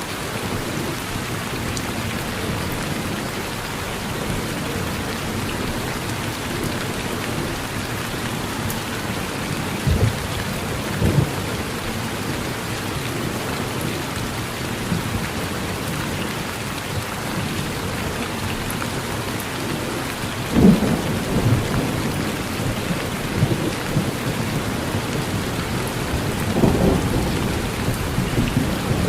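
Steady rain falling on a porch, with thunder cracking and rumbling several times; the strongest clap and rumble comes about two-thirds of the way through.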